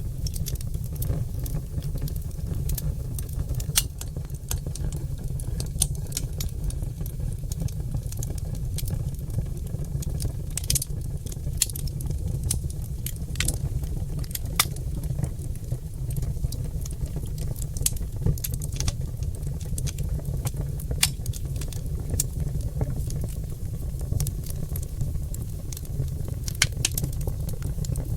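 Oak logs burning in a fireplace, crackling and popping: irregular sharp pops of varying strength over a steady low rumble.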